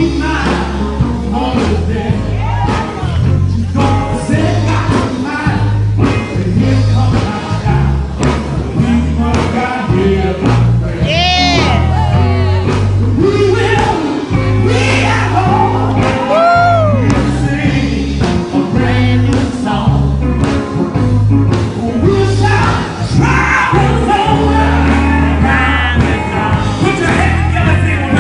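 Live male gospel quartet singing with a band: a lead voice bending and sliding through drawn-out notes over a heavy, pulsing bass line.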